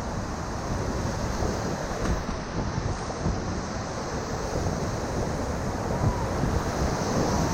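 Steady rush of the Ocoee River's whitewater, with wind buffeting the microphone.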